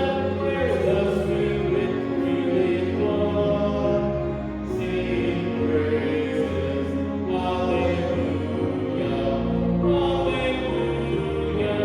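Church music: voices singing slow, held notes over sustained low notes underneath.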